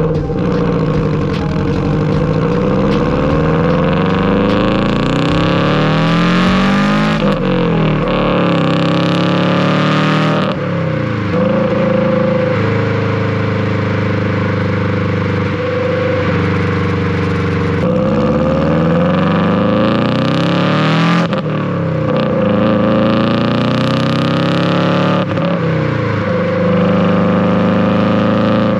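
Subaru WRX's turbocharged flat-four engine under acceleration, revs climbing and then dropping sharply several times as it shifts through the gears, with a steadier cruising stretch in the middle.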